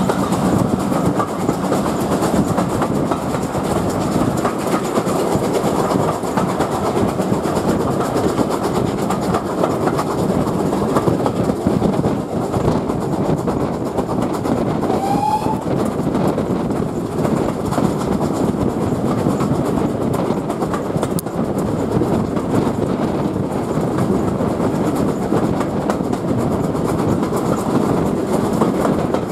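Steady running noise of a steam-hauled train heard from an open coach window: the rumble of the wheels on the rails mixed with rushing air.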